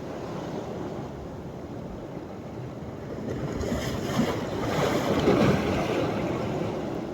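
Sea waves washing onto the beach as the tide comes in: a steady surf hiss that swells into a louder breaking wave a little past halfway, then eases off.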